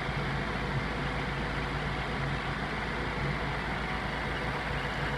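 Mercedes-Benz W202 C180's four-cylinder petrol engine idling steadily with an even hum.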